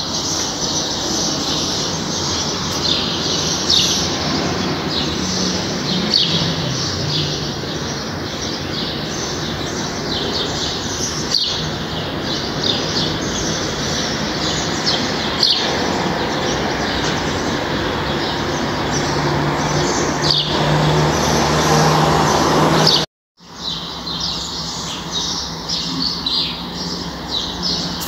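Many small birds chirping, a dense, continuous chatter of short high calls over a steady low hum. The sound drops out completely for a moment near the end.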